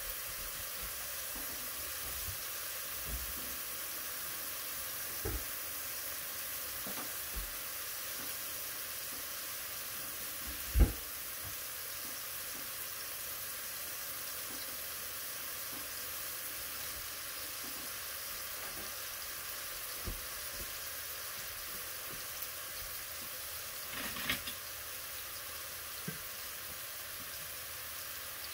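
Butter sizzling steadily under diced onions and celery sweating in a pot and seasoned chicken pieces frying in a cast-iron skillet. A few soft knocks, and one loud thump about eleven seconds in.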